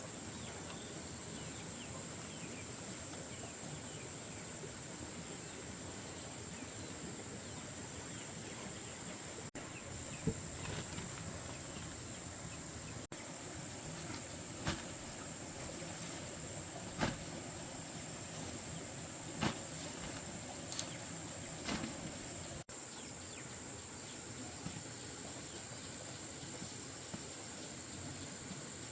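Steady high-pitched insect drone over outdoor ambience. Six sharp clicks or knocks are scattered through the middle stretch.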